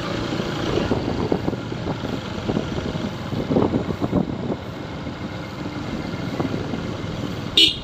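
Motorcycle running on the move, a steady uneven rumble throughout. A short, sharp, high-pitched sound near the end.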